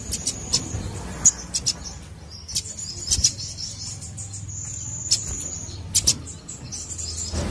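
Sogon, a small sunbird, singing in full song: high, thin trilled notes held for up to a second at a time, broken by sharp, quick chip notes.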